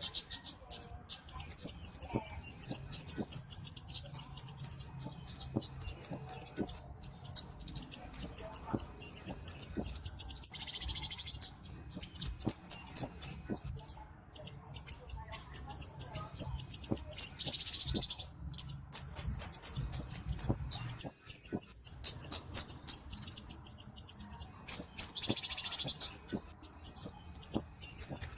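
Kemade (cabe-cabean flowerpecker) calling in rapid, very high-pitched twittering trills, in runs of a few seconds with short pauses. A rougher, hissing buzz comes in three times among the trills.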